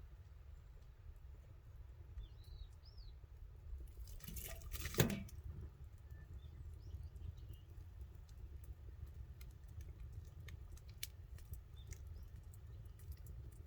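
Campfire crackling, with scattered sharp snaps over a low steady rumble, and a louder rustle ending in a knock about five seconds in. Birds chirp briefly a few times.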